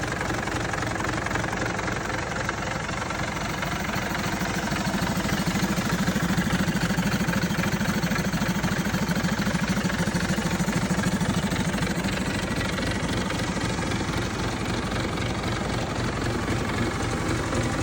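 Scania 113 truck's 11-litre straight-six diesel engine running steadily at idle, growing slightly louder for a few seconds in the middle.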